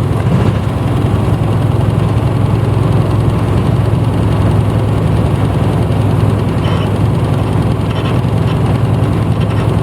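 1994 Hino Blue Ribbon U-HT2MPAA bus engine running steadily, heard from inside the passenger cabin as a low, even hum.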